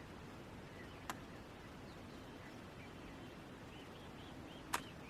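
Quiet pause: faint steady background hiss, with a sharp click about a second in and another near the end, and a few faint high chirps just before it.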